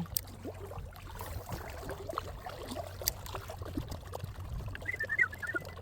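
Faint water lapping and trickling against a pontoon boat's hull, with scattered small clicks and a brief faint high chirping about five seconds in.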